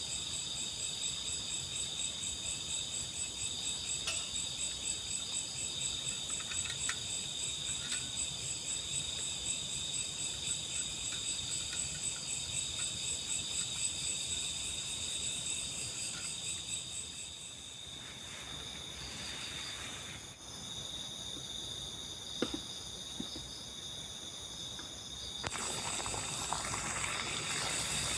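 A chorus of night insects, crickets among them, chirping steadily in high, fast-pulsing trills. It thins out for a few seconds about two-thirds of the way in, then returns fuller near the end.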